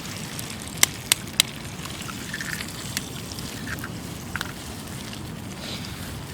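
Campfire crackling over a steady hiss, with three sharp pops in quick succession about a second in.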